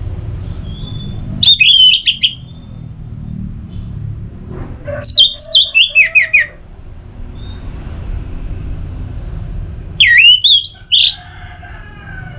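Orange-headed thrush singing three loud phrases of quick, sweeping whistled notes, a few seconds apart, over a steady low rumble.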